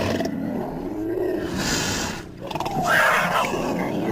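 Werecat voice made from big-cat recordings (smilodon, leopard and cougar sounds): a low growl, then a louder roar about two and a half seconds in.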